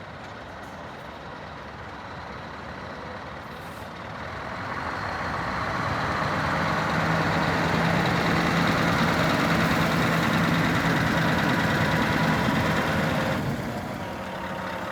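Scania R500 truck's V8 diesel engine running at idle, rising about four seconds in to a louder, steady run with a constant hum for several seconds, then dropping back near the end.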